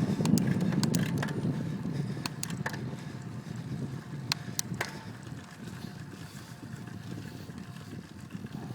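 Wind rushing over the microphone and road noise from a bicycle being ridden, growing steadily quieter, with a few faint clicks.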